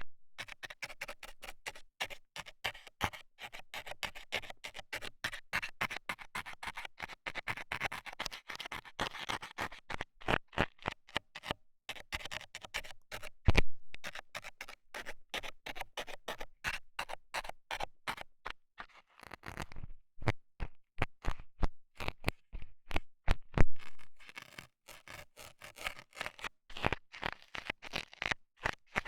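Metal scaler tool scraping and poking at a microphone's ear, making a quick run of close scratching and clicking strokes with a few louder, deeper bumps along the way.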